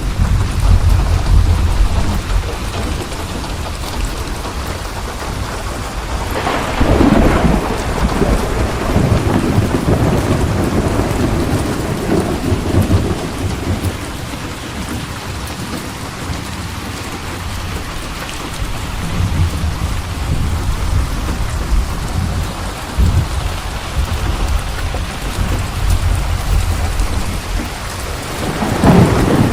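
Steady heavy rain falling, with thunder rumbling low throughout: a louder crack and long roll about seven seconds in, and another clap building near the end.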